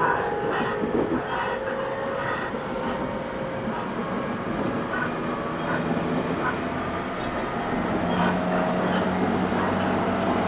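E127 Series 0 electric train running, heard from inside the car: steady rolling noise with short clicks from the wheels passing over rail joints and faint tones from the traction motors that shift in pitch partway through.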